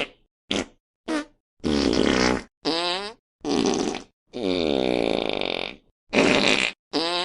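A rapid string of fart sound effects, about eight in a row with short silences between: several brief blasts, then longer ones. The longest, about a second and a half, dips and then rises in pitch.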